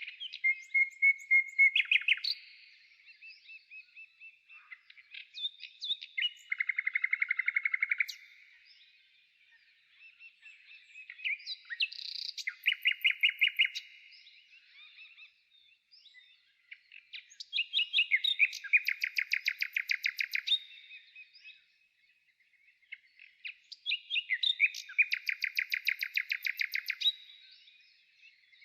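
A songbird singing: loud phrases of rapid trills and chirps, each lasting a few seconds, repeated about every six seconds with short quiet gaps between.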